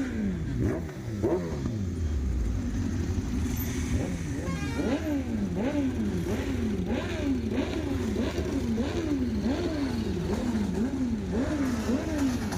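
Motorcycle engine revved in quick, even throttle blips, its pitch rising and falling a little under twice a second.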